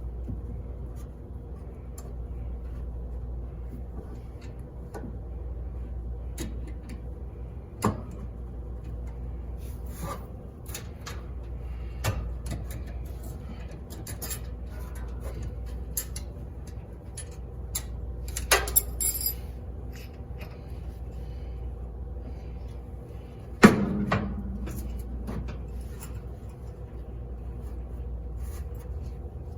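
Scattered metal clinks, clicks and knocks from hand tools working on a washing machine's belt and clips, over a steady low hum; the loudest is one sharp clank that rings briefly, a few seconds before the end.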